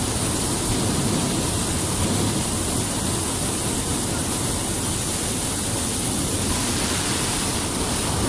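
Steady rushing, rumbling din of a stampeding herd, starting suddenly just after a countdown and going on without a break.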